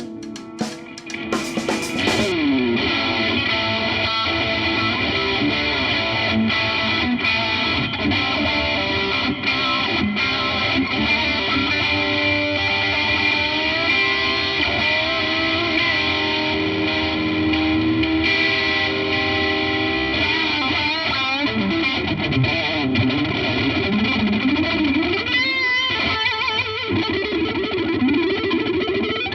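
Newen TL electric guitar played through distortion: a continuous run of rock lead playing with held notes, and string bends in the second half.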